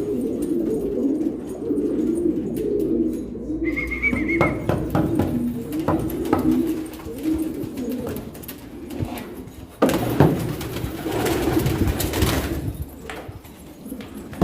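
Domestic pigeons cooing continuously, several birds overlapping. A short high chirp comes about four seconds in, and a burst of rustling noise starts about ten seconds in and lasts a couple of seconds.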